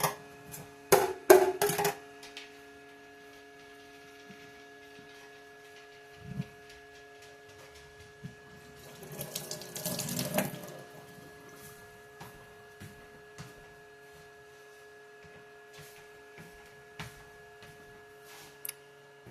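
Kitchen sink tap running briefly, a rush of water for about a second and a half, nine seconds in. A few clatters and knocks come in the first two seconds, and a steady appliance hum runs underneath, with scattered small clicks.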